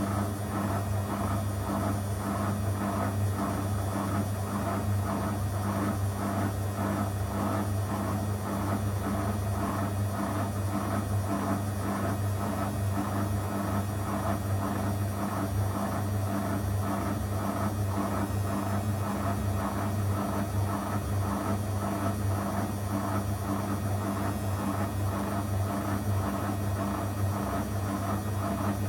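Zanussi FL984CN washing machine running a 35° wash program: a steady motor hum with a fast, even flutter over it, unbroken throughout.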